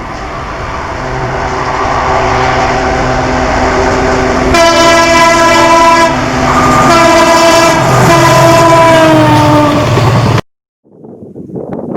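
WDP 4D diesel-electric locomotive approaching with its engine and train noise building, then sounding its multi-tone horn: a short blast, then a long one that drops slightly in pitch near its end. The sound cuts off abruptly about ten seconds in, and quieter, choppy noise follows.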